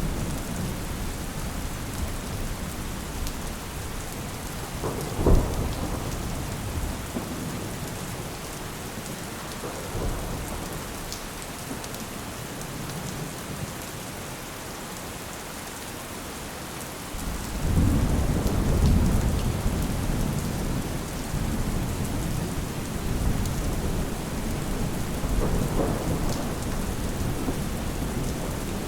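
Steady rain falling, with rolls of thunder: a short sharp clap about five seconds in, a faint rumble near ten seconds, and a long, louder rumble from about seventeen seconds that slowly dies away.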